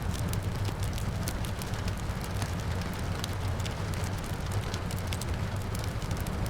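Fireplace fire crackling, with many small sharp pops scattered over a steady low rumble, mixed with the even hiss of steady rain.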